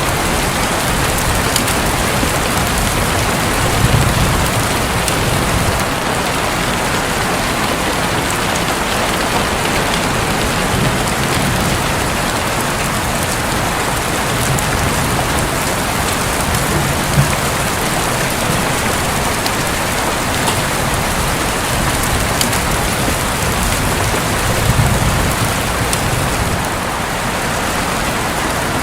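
Steady rain drumming on a roof, with a few low rumbles of thunder rising and fading under it.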